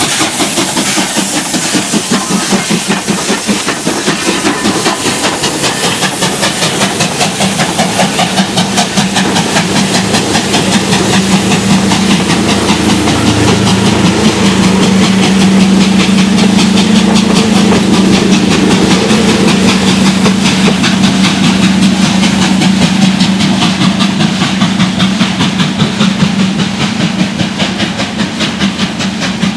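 WAGR W class 4-8-2 steam locomotive No. W920 working hard up a grade without assistance: a rapid, steady run of exhaust chuffs over a continuous hiss. It grows louder towards the middle and eases a little near the end.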